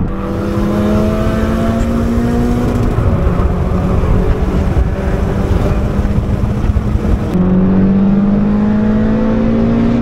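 2.0 TFSI turbocharged four-cylinder car engine accelerating hard at full throttle during a roll race. Its pitch rises, drops about three seconds in as if at a gear change, and climbs again strongly near the end, over loud road and wind noise.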